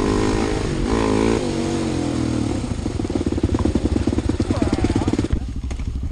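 Single-cylinder four-stroke enduro bike engine (Husqvarna TE250) revving briefly under throttle, then dropping to a low, evenly pulsing note as the bike rolls off. A rush of noise over the engine cuts off about five seconds in, leaving the engine ticking over.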